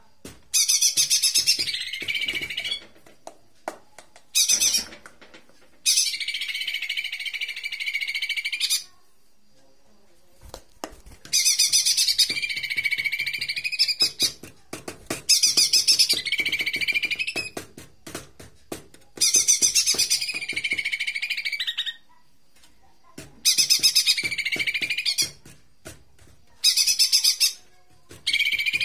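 Jomin song, a recording played as a lure to set a captive cucak ijo mini singing. The phrases are loud, fast and chattering, about eight of them, each one to three seconds long with short pauses between.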